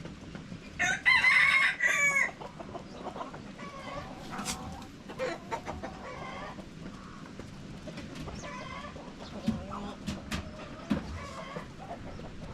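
A rooster crows once, loud and about a second long, a second into the sound, while chickens cluck in short calls around it.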